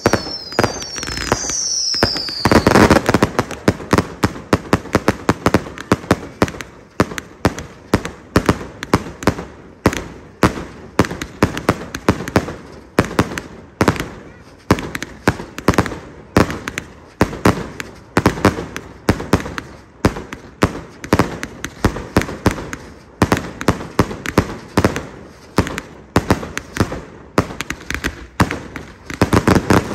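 Grand finale of a fireworks display: a dense, rapid barrage of bangs that keeps up without a break. Whistles falling in pitch sound over the first couple of seconds.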